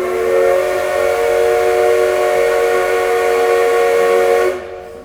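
Steam locomotive whistle of the SL Moka sounding one long blast with several steady tones at once, cutting off sharply about four and a half seconds in.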